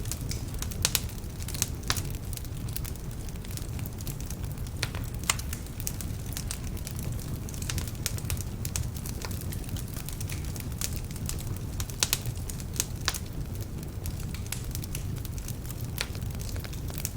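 Wood fire burning in a fireplace: a steady low rumble of flames with frequent sharp, irregular crackles and pops from slightly damp logs.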